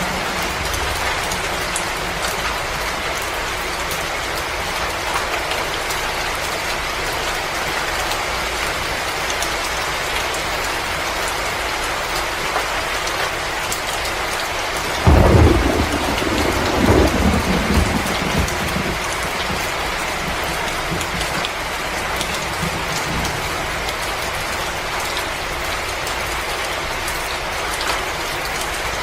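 Steady rushing hiss of heavy rain. About halfway through, a low rumble of thunder starts suddenly, swells a second time, and fades over a few seconds.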